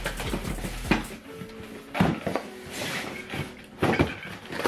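Packaging and parts being handled during unboxing: a few sharp knocks and clunks with rustling between them.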